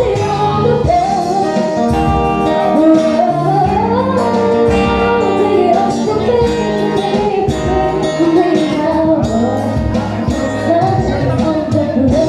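A live band playing a song, with a singer's voice gliding over guitar, bass and a steady drum beat.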